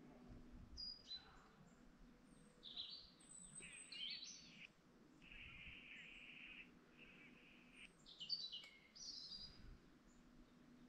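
Woodland birds calling: scattered chirps and short high calls, with two longer, harsher notes in the middle, over a faint steady hum.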